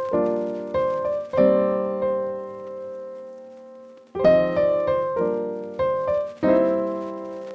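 Background piano music: chords struck and left to ring and fade, with a longer held chord in the middle.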